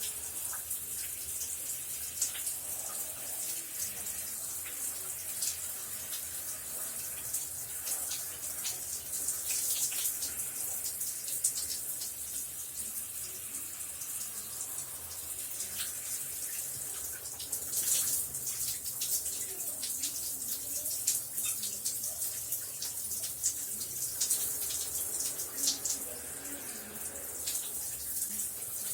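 Shower running steadily: a continuous high hiss of spray with scattered splatter as water hits the floor.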